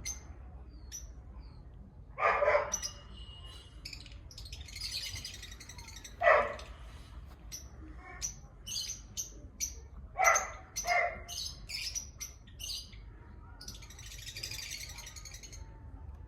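Animal calls: four louder short calls a few seconds apart, with many short high chirps between them and two brief stretches of high hissy sound.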